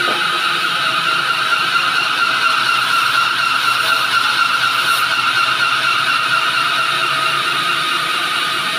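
Sawmill band saw cutting through a pine log: a loud, steady, continuous sawing noise that swells slightly in the middle and eases a little near the end.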